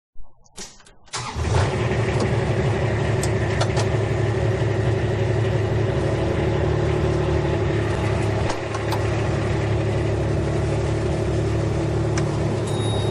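An engine starts about a second in after a few short clicks, then runs steadily at idle.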